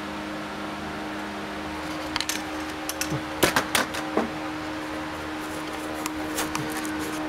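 A steady mechanical hum, with a cluster of sharp clicks and knocks between about two and four seconds in and a few more near the end.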